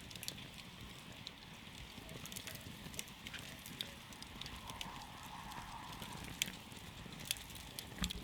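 Wood campfire burning, with sharp crackles and pops scattered irregularly over a steady low rumble of the flames.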